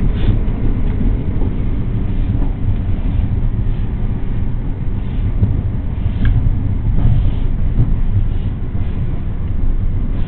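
Trenhotel sleeper train running along the line, heard from inside a compartment: a steady low rumble of wheels and running gear, with a few faint clicks.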